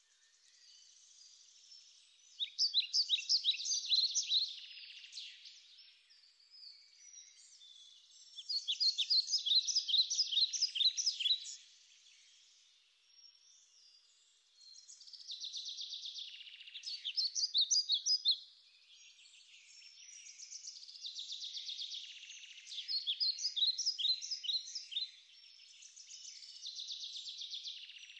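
A songbird singing: phrases of rapid high notes, each about three seconds long, repeating every few seconds.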